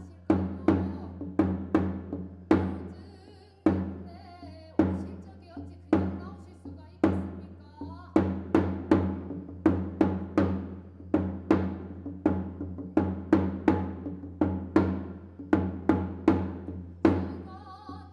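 Drum struck in an irregular rhythm, each stroke ringing out and fading, the strokes sparse at first and coming faster, two or three a second, from about halfway through. Under it runs a steady low drone. This is music for a Korean shamanic blessing rite (gut).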